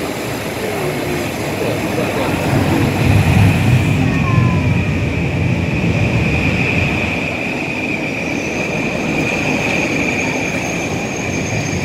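A Metro-North M8 electric commuter train running past alongside the platform, its wheels rumbling on the rails. A steady high-pitched whine rises over the rumble about four seconds in, and a second, higher tone joins it past the middle.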